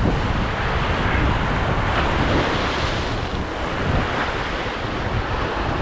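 Sea surf washing against shoreline rocks, with wind buffeting the microphone as a steady low rumble.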